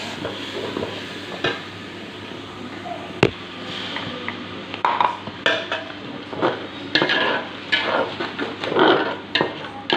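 Stirring and scraping in a cooking pot while chicken curry and its spices cook. There is one sharp clink about three seconds in, then quick, irregular scrapes and clatters against the pan.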